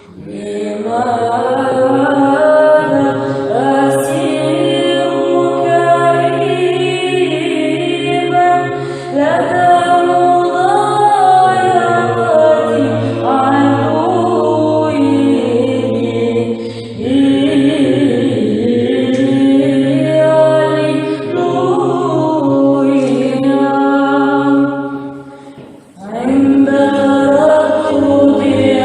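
Women's choir chanting a Byzantine psalm a cappella in the third tone. The melody moves over a steady held drone note, with a short break near the end.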